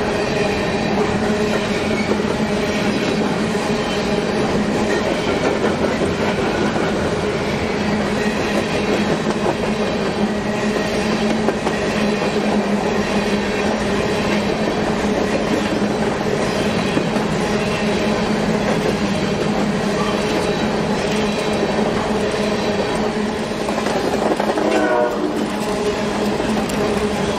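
Train rolling past at a steady pace, its wheels clicking over the rail joints under a steady hum, with a brief wavering squeal near the end.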